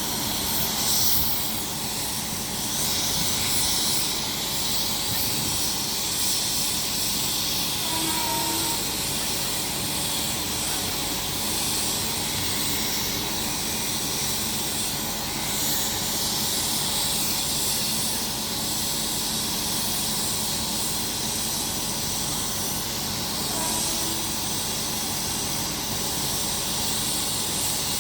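Steady hiss and hum of a train, with a faint short tone about a third of the way in and another near the end.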